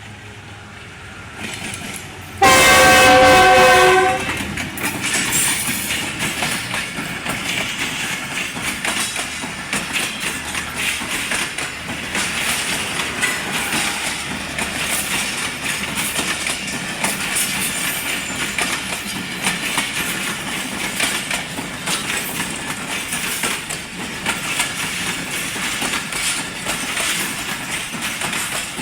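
A Pakistan Railways diesel locomotive's horn blows one loud chord about two seconds in, lasting about a second and a half. The train then runs past with a steady rumble and a rapid clatter of wheels over the rail joints.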